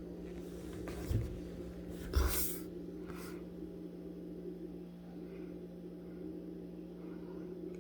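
Quiet room with a steady low electrical hum, broken by a soft knock about a second in and a brief, louder rustle about two seconds in.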